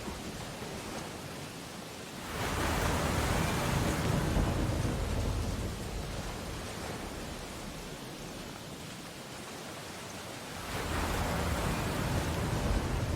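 Ocean waves breaking on a beach: a rush of surf swells up about two seconds in and slowly washes back, then a second wave breaks near the end.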